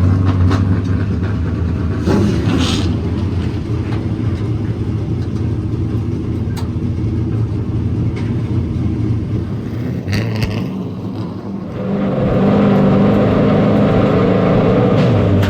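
Motor vehicle engines running steadily. About twelve seconds in the engine sound gets louder and fuller and holds there.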